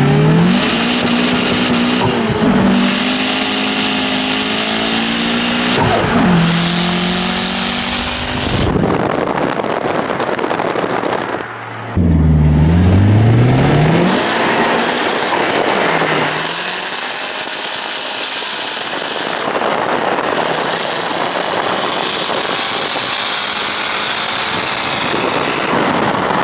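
Cars accelerating hard side by side, a turbocharged Mitsubishi Eclipse with a 4G64 engine and a VTEC Honda Civic, heard from inside one of the cars. The engine pitch climbs through each gear and drops back at the shifts, over a steady rush of wind and road noise.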